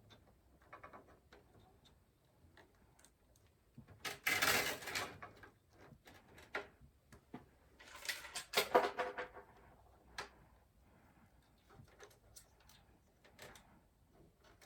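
Hands handling cables inside a PC case during cable management. There are scattered light clicks and taps, and two longer rustling, scraping bursts, about four seconds in and again about eight seconds in.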